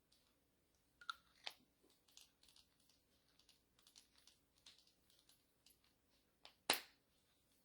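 Faint, scattered light clicks and taps of small craft tools being handled at a desk, with one sharper click near the end.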